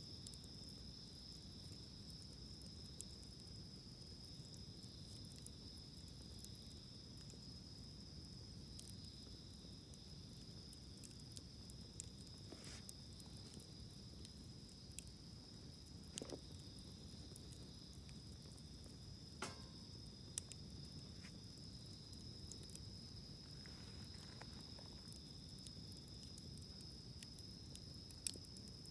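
Faint, steady high trilling of insects such as crickets, with scattered small crackles and pops from a wood campfire, the clearest about 16 and 19.5 seconds in.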